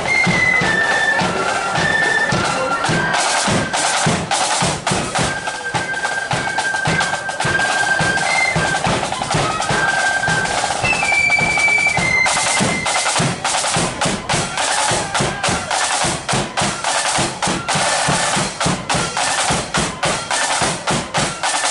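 A marching flute band playing on parade: flutes carry a high melody over snare drum rolls and a steady bass drum beat. The drumming grows denser about halfway through.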